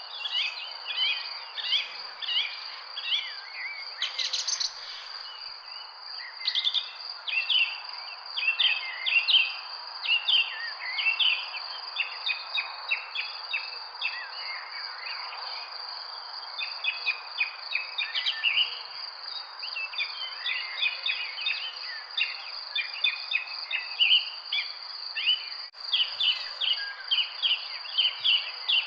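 Many birds chirping and twittering in quick short calls over a steady, unbroken high insect trill, with an even background hiss beneath.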